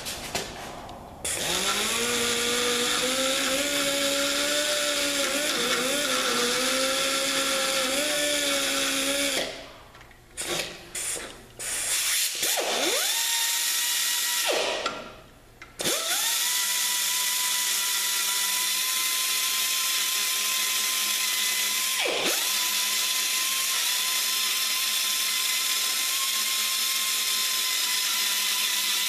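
Power grinder working on a flywheel. It runs for a long stretch with its pitch wavering under load, cuts in and out in a few short bursts around the middle, then settles into a steady high whine for the rest.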